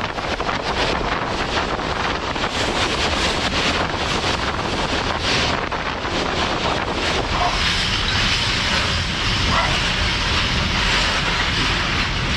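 Wind buffeting the microphone over the rumble and clatter of a moving freight train, heard from on board.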